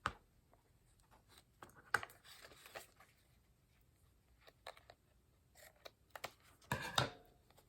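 Paper craft pieces being handled: scattered soft rustles and small clicks, with a sharper click about two seconds in and a brief scrape of paper near the end.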